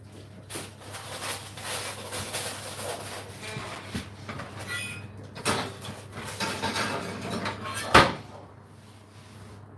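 Irregular clattering and knocking of objects being handled, with a few squeaks, ending in one sharp knock about eight seconds in, over a steady low hum.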